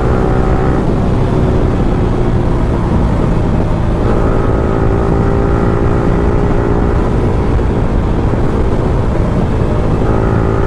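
Yamaha R15M's 155 cc single-cylinder engine running through an Akrapovič free-flow exhaust, ridden at a fairly steady moderate throttle, the exhaust note easing about a second in and picking up again around four seconds and near the end.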